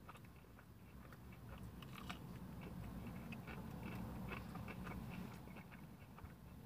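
Close-up chewing of crunchy fried-chicken breading: a string of small, crisp crunches.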